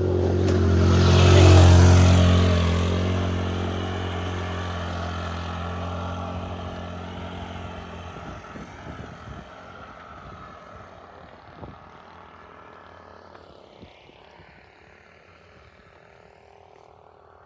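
Motorbike engine passing close by: it grows loud in the first two seconds, then fades as it moves away, gone after about eight seconds.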